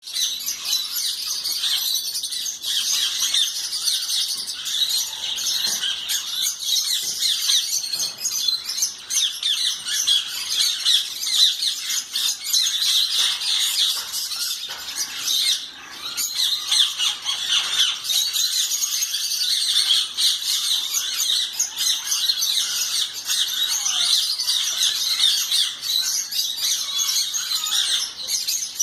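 A crowd of parrots chattering, chirping and squawking continuously, many calls overlapping, with a brief lull about halfway through.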